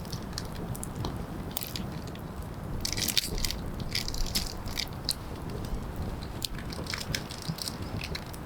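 Campfire of burning wood crackling: irregular sharp pops and snaps over a low steady noise, with a dense run of crackles about three seconds in.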